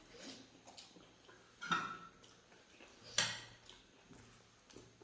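Close-up eating sounds: two short, sharp mouth or utensil noises about a second and a half apart, with faint chewing between.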